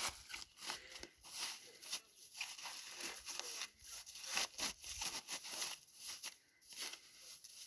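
Packaging rustling and crinkling as it is handled, in many short irregular strokes.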